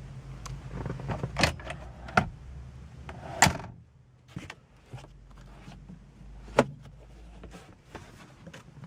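A run of clicks and knocks from the 2007 Mitsubishi Galant's doors and fittings being handled, the loudest a thump about three and a half seconds in and another sharp knock near two-thirds through, over a low steady hum that drops away after the loud thump.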